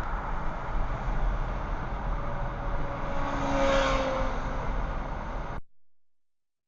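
Car road and engine noise in traffic, with another vehicle going past about three and a half seconds in. The sound cuts off suddenly near the end.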